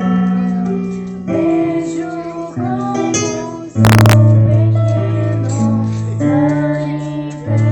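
A girl singing a slow worship song to strummed acoustic guitar, holding long notes. A brief loud burst of noise, like a knock on the microphone, cuts across the music about four seconds in.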